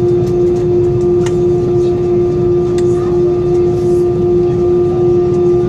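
CFM56-5B jet engines of an Airbus A320-214 running at steady power, heard from inside the cabin as a low rumble with a strong steady hum-tone and fainter higher tones, with a few light rattles.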